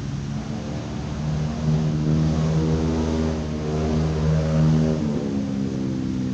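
A motor vehicle's engine running steadily, swelling louder through the middle, with its pitch dropping about five seconds in as it passes.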